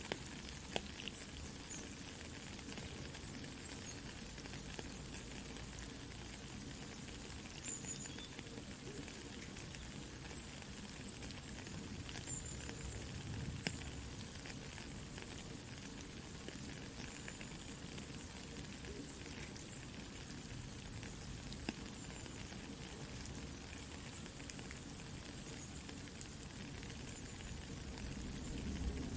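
Soft, steady rain hiss mixed with a campfire's crackling, with scattered sharp pops from the fire.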